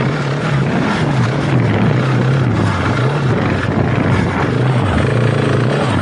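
KTM 690 Enduro R's big single-cylinder four-stroke engine running on the move, its pitch rising and falling with the throttle, over a steady rushing noise.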